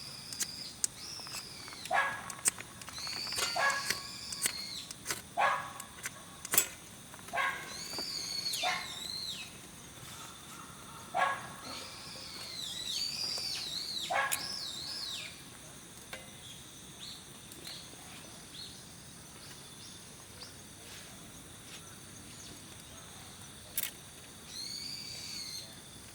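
Wild birds calling: repeated arching, whistled calls that come in clusters and fall quiet for a stretch before one more call near the end, with a few sharp clicks in between.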